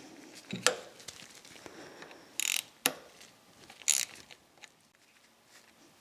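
Hand tools clicking and clattering against the metal parts of a milling machine head during disassembly: a handful of separate sharp knocks with faint ticks between, dying away near the end.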